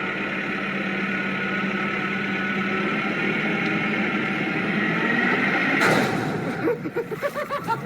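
A motor vehicle running steadily, its engine and road noise filling the sound, with a sudden loud noise about six seconds in.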